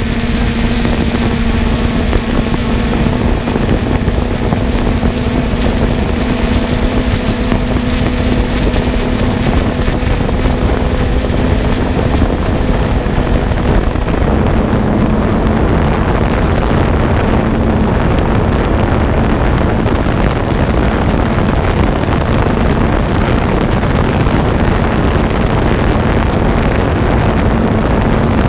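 Multirotor drone's propellers and motors whirring steadily, with a held hum and wind noise over the microphone.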